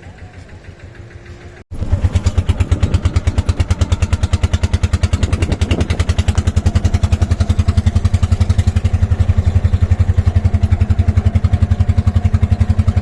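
Motorcycle engine running close and loud with a steady, rapid pulsing beat, cutting in abruptly after a short quieter stretch about two seconds in.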